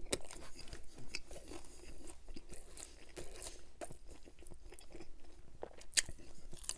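Close-up mouth sounds of a person chewing and crunching a crusty toasted sandwich, with wet chewing and many small crackles. A louder crunch comes about six seconds in as a fresh bite is taken.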